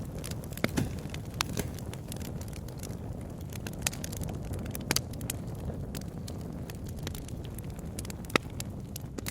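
Wood bonfire crackling, with frequent sharp pops over a steady low rush; the loudest pop comes about eight seconds in.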